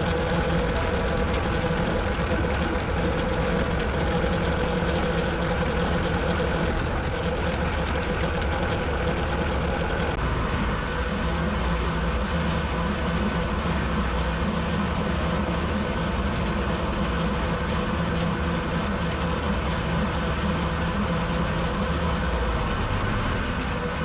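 Tractor engine running steadily while it pulls a rotary cutter (bush hog) through a mowing pass. Its tone shifts about ten seconds in.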